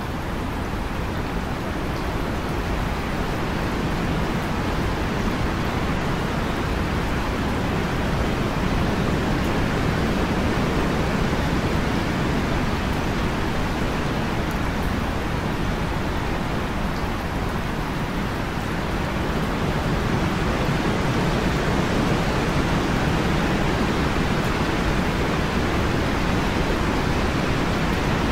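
Heavy rain pouring steadily: a dense, even rush of noise that holds at the same level throughout.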